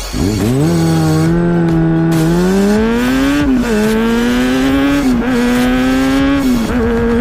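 Sport bike's inline-four engine accelerating hard: the pitch climbs, then drops sharply about three times as it shifts up through the gears.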